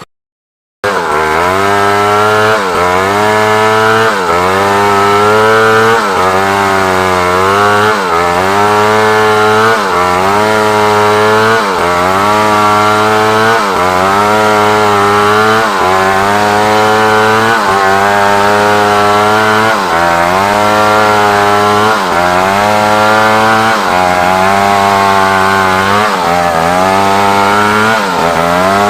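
Large chainsaw cutting a log of African wood at full throttle. It cuts in abruptly just under a second in, and its engine pitch sags and recovers about every second and a half as the chain bogs in the wood.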